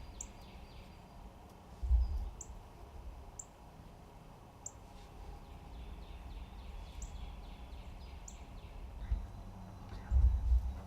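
Small birds chirping in short high notes, roughly once a second, over faint rapid trills and steady outdoor background noise. Two low thumps, one about two seconds in and one near the end, are the loudest sounds.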